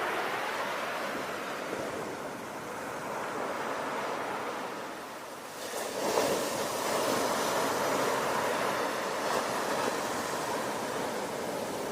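Ocean waves washing onto the shore in a continuous hiss of surf. A larger wave surges in about halfway through and stays louder to the end.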